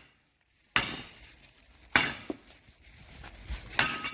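Three ringing hammer blows on the steel of a bulldozer track chain, about a second and a half apart, driving out a link pin.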